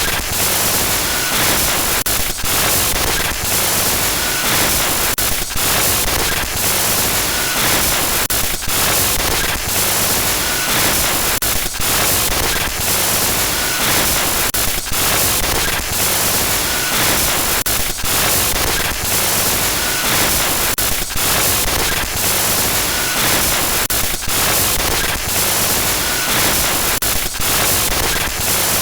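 Harsh glitch static: loud hiss across the whole range, broken by constant short stutters and dropouts, with a faint beep recurring about every two seconds.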